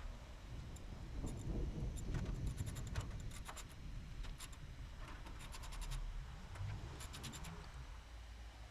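Hands working wiring into the plastic wire looms inside an air conditioner condenser unit: scraping and rustling, with several quick runs of small sharp clicks.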